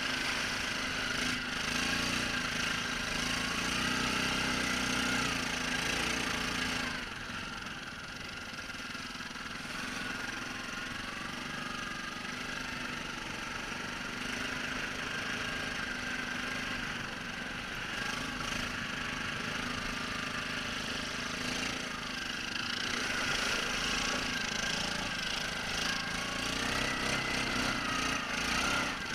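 ATV engine running as the quad is ridden through snow, its pitch rising and falling with the throttle. It drops quieter about seven seconds in and grows louder again after about twenty-three seconds.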